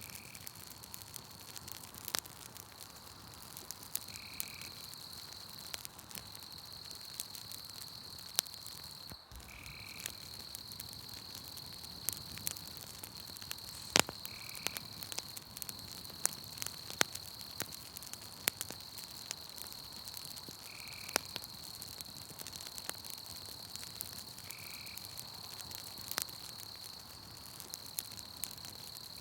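Campfire crackling with scattered sharp pops, over a steady high insect trill. A short animal call repeats every four to five seconds.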